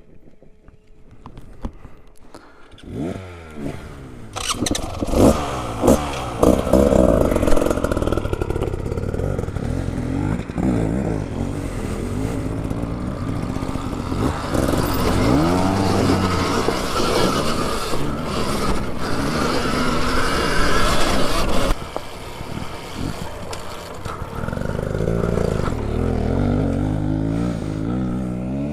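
Dirt bike revving up and down repeatedly as it is ridden, starting about three seconds in. It is loudest in the middle and drops off suddenly about 22 seconds in, then carries on more quietly.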